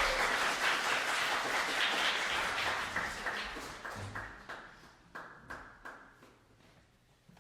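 Audience applauding, the dense clapping thinning out to scattered single claps and dying away.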